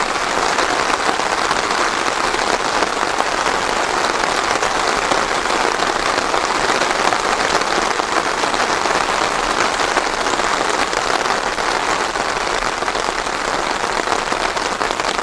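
Steady rain falling, an even dense pattering without thunder.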